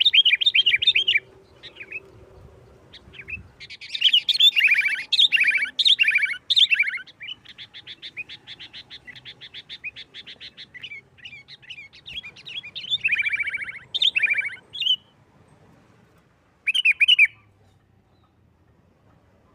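Sooty-headed bulbul singing in bursts of quick, chattering notes in the fast, combative 'nggaruda' style. In the middle the bird breaks into an even rapid trill of about seven notes a second, then goes quiet near the end after a short final phrase.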